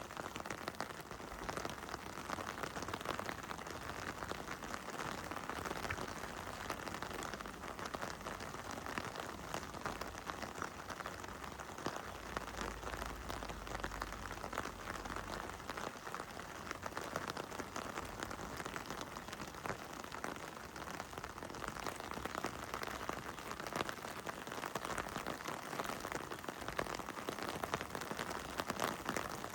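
Steady heavy rain falling on surfaces, a continuous hiss dense with the patter of individual drops.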